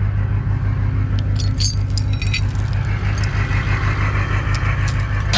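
Rollback tow truck's engine running with a steady low drone. Light metallic jingling and clinks come and go over it, mostly in the first half.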